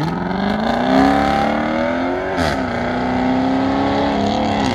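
Ford Falcon sedan accelerating hard away from the start line, its engine revs climbing. There is a quick upshift about two and a half seconds in, then it pulls through the next gear.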